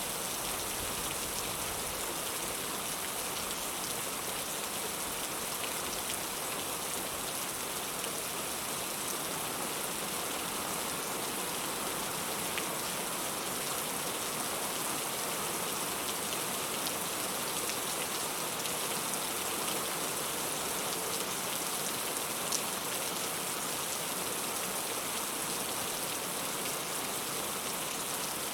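Heavy rain falling steadily, an even dense hiss with a few sharp drop ticks here and there.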